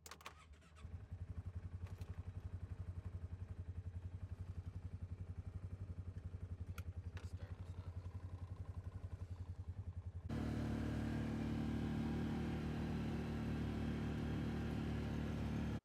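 Side-by-side UTV engine starting and running with an even, rapid pulse. About ten seconds in it switches abruptly to a louder, steadier engine run.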